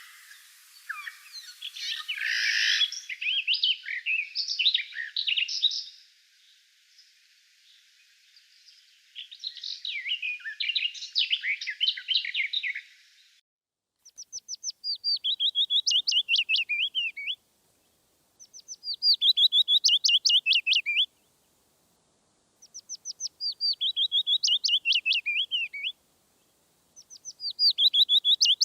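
Bird song: a busy jumble of chirps and trills over a hiss for the first half. Then one song phrase of about three seconds is sung four times with short pauses between, each starting with a run of quick high notes and going into lower trills.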